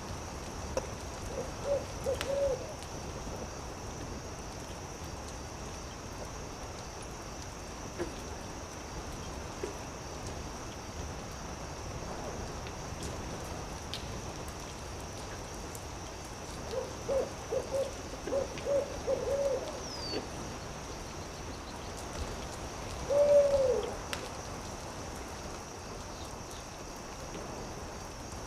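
Owl hooting: a short run of hoots about a second in, a longer run of hoots about two-thirds of the way through, then one louder, drawn-out hoot that falls in pitch. Under it, a campfire's steady hiss with a few sparse crackles.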